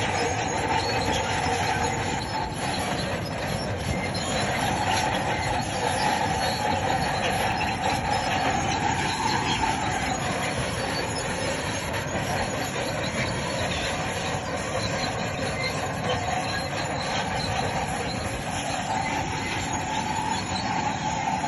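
Crawler bulldozer working, its steel tracks squealing and clanking steadily over the diesel engine's running, with the squeal wavering in pitch.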